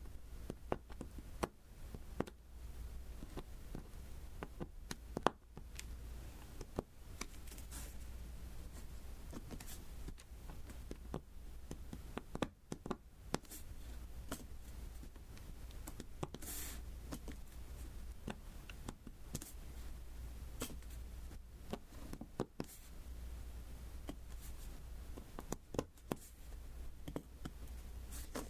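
Diamond painting pen tapping small resin drills one at a time onto the sticky adhesive canvas: irregular light clicks and taps.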